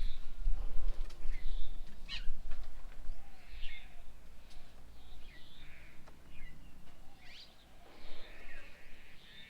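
Several small birds chirping and calling at a garden bird table: short chirps and quick rising and falling whistled notes, scattered through, over a low rumble that is strongest in the first two seconds.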